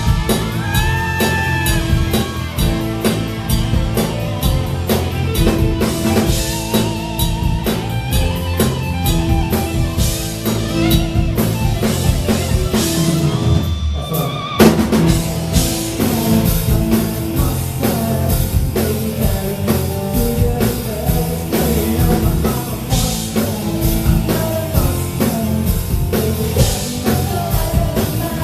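Live pop-rock music played loud through a concert sound system, with a driving drum kit, guitar and a singing voice. About halfway through the music breaks off briefly, then comes back in with a loud hit.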